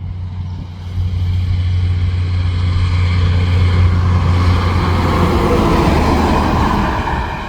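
Truck driving past: a steady low engine drone, with road noise that builds to a peak about five or six seconds in and then eases off.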